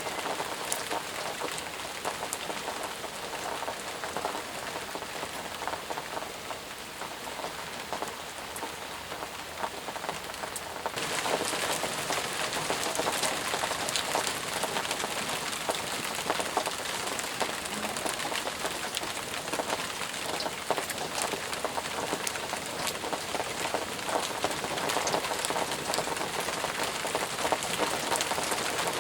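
Heavy rain falling steadily, with many separate drop impacts heard through it; it turns abruptly louder about eleven seconds in.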